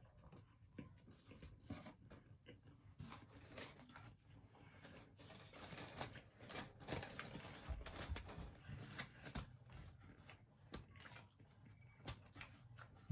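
Faint eating sounds from a mukbang: chewing on barbecue wings, with irregular small clicks and mouth noises.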